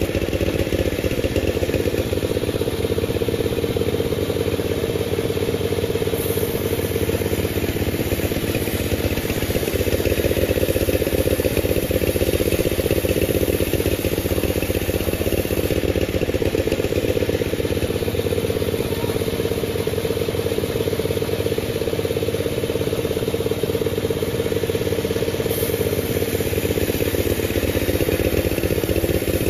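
Panda36 sawmill running with a steady engine note.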